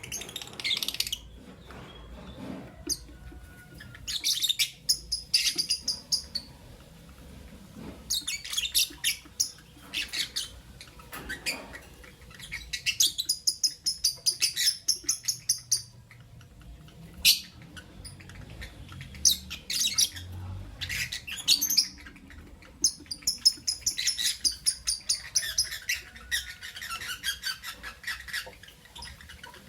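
Lovebirds chirping: bursts of rapid, high-pitched chirps, each lasting a second or two, repeated every few seconds with short pauses between.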